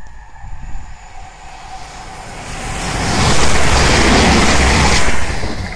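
A TransPennine Express Class 185 diesel multiple unit passing at speed close by. The rush of wheels and air on the rails builds over the first three seconds, stays loud for about two seconds, then drops away quickly as the train goes by.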